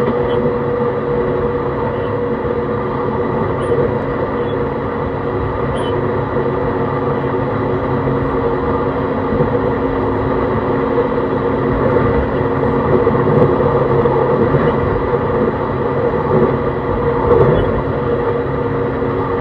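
Running sound of a JR East E131 series 600 electric train heard from inside the car: steady wheel-on-rail rumble with level tones from the Hitachi hybrid SiC traction equipment. It swells a little louder in the second half.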